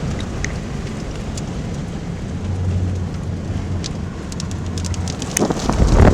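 Tornado-storm wind and rain noise, with a low steady hum in the middle and scattered sharp ticks. Near the end the wind surges, buffeting the microphone loudly.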